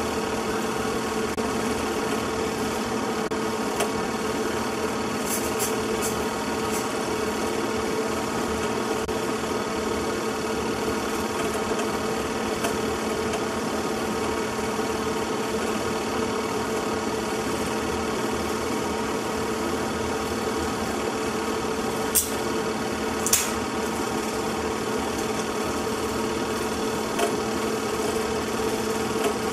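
Movie projector running: a steady mechanical hum, with a few faint clicks about 5, 22 and 23 seconds in.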